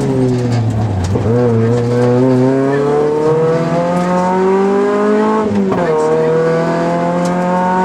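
Rally car engine heard from inside the cockpit. The revs fall for about the first second, then climb steadily under hard acceleration, with one upshift about five and a half seconds in, after which the revs climb again.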